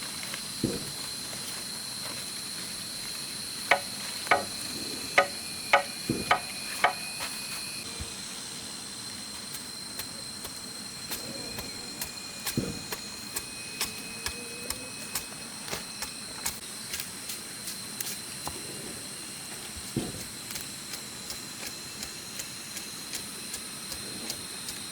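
A run of about six sharp knocks, a tool striking wood or bamboo, comes a few seconds in. Lighter, evenly spaced taps about twice a second follow through the rest. A steady high-pitched insect drone runs underneath.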